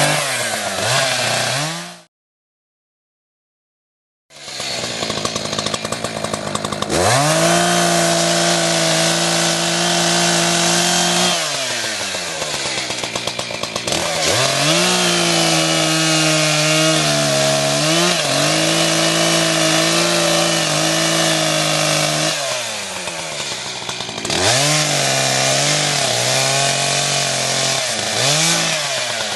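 Echo two-stroke chainsaw revving up and down, held at high revs for several seconds at a time as it cuts through hard eucalyptus wood. The sound drops out entirely for about two seconds near the start.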